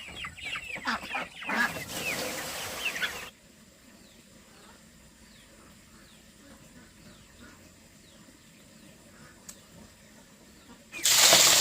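Chickens clucking, a quick run of short calls, for about three seconds. Then it cuts suddenly to a quiet stretch with faint high chirps. Near the end a loud rushing noise starts abruptly.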